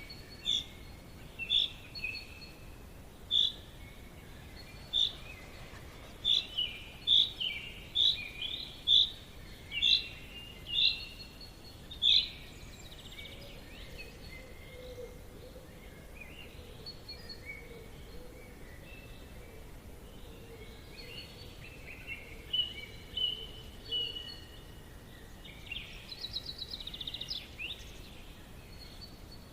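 Forest ambience: songbirds chirping in short, sharp calls, a quick run of them through the first dozen seconds, then sparser, then another burst of chirps near the end, over a steady background hiss.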